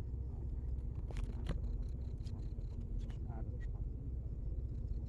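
A small engine running steadily with an even low throb, with a few sharp clicks about a second in.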